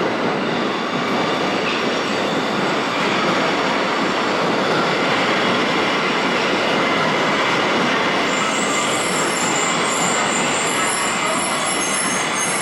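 Tokyo Metro 1000 series subway train moving through the station, a loud steady rumble of wheels on rail. High-pitched wheel squeal joins in about eight seconds in.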